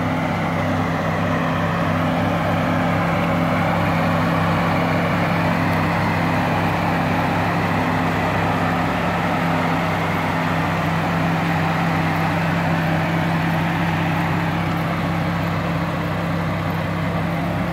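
Car engine idling steadily, an even low hum that does not rise or fall.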